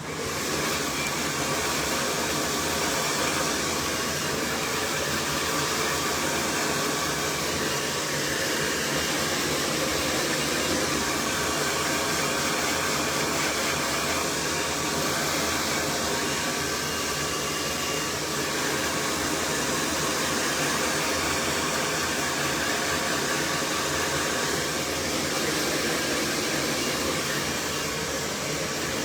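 Cloud 9 hair dryer switched on and blowing steadily, a continuous rushing of air with a faint motor whine, as it dries hair.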